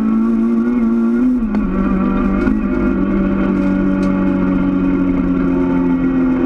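Rally car engine at speed, heard from inside the cabin. The note drops sharply about one and a half seconds in, then holds steady under load.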